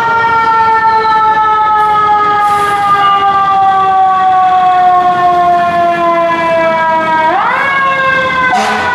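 Fire truck siren wailing: it winds up at the start, falls slowly in pitch for about seven seconds, then winds up again about seven seconds in. A sharp burst comes right at the end.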